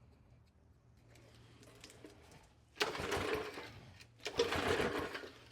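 Bolens 125cc mower engine pull-started twice, each pull turning it over with a rapid chuffing for about a second without catching.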